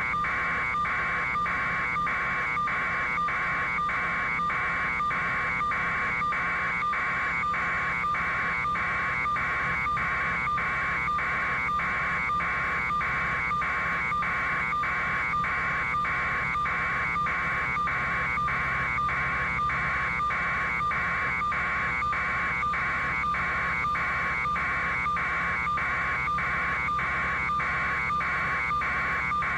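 Electronic alarm buzzing in even, rapid pulses, about two a second, at a constant level.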